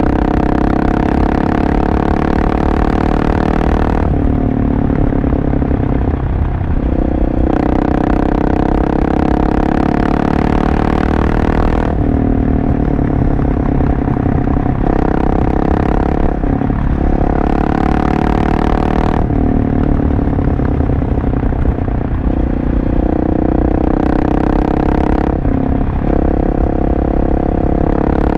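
Husqvarna 701 Supermoto's single-cylinder engine through a LeoVince exhaust, heard from on the bike while riding. The throttle is opened and closed by turns every few seconds, with short breaks in the note about four times, as at gear changes.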